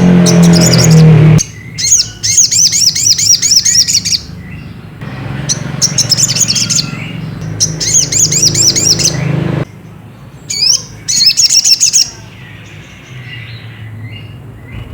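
Sogok ontong (brown-throated sunbird) calling: several phrases of fast, repeated high chirps with short breaks between them, over a steady low hum.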